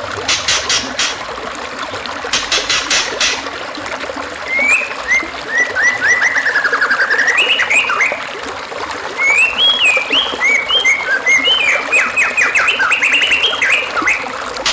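A songbird singing a varied run of quick whistled and trilled phrases over a steady trickling stream. It is preceded in the first few seconds by two short bursts of fast, dry clicking.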